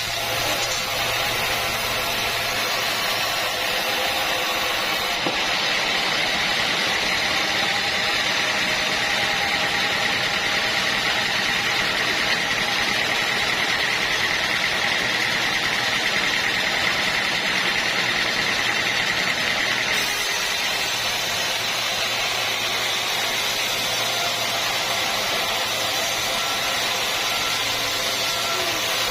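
Sawmill machinery running steadily, a continuous mechanical drone with a low hum; a higher steady whine comes in about five seconds in and drops away about two-thirds of the way through.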